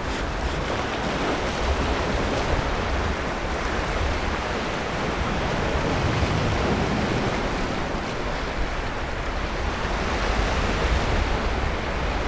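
Sea waves breaking and washing on a beach, a steady surf that swells and eases slowly, with a low rumble of wind on the microphone.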